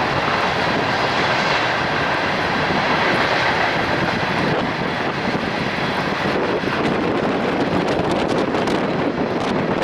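Freight train rolling past: a steady loud rumble and rush of wheels on rail, with sharp clicks joining in over the last few seconds.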